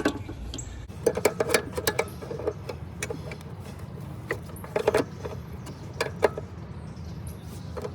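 Metal tool clinking and knocking against engine parts: a pipe wrench being fitted and worked on a stuck EGR valve. Irregular clicks and clanks begin about a second in.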